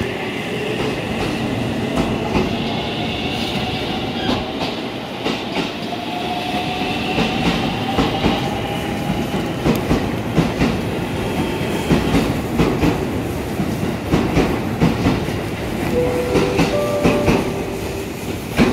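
JR Central 313 series electric train pulling away from the platform: the motor whine rises in pitch as it accelerates, with wheels clicking over the rail joints as the cars pass.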